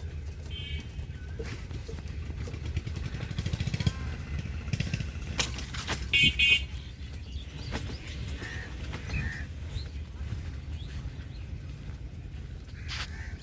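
A vehicle engine running steadily, with two short horn toots: a faint one near the start and a louder one about six seconds in.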